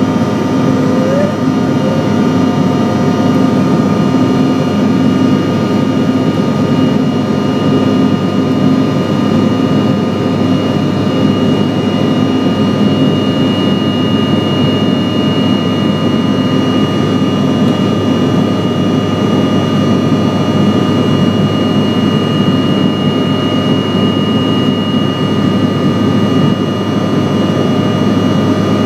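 Steady jet drone of a CRJ700's two rear-mounted General Electric CF34 turbofans, with a dense low rumble and several steady high whining tones. It is heard from inside the cabin in flight after takeoff.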